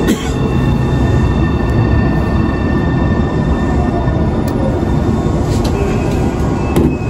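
Nankai 1000 series electric train running, heard from inside the car: a steady rumble of wheels on rail with faint high steady tones and a few sharp clicks, as the train draws near its next station stop.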